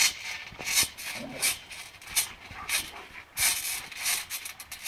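A dog in rough play: irregular scuffling and rubbing noises, a bit more than one a second.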